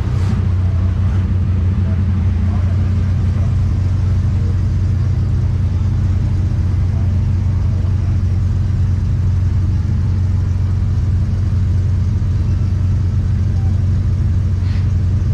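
Truck engine running at a steady speed: a constant low drone that neither rises nor falls.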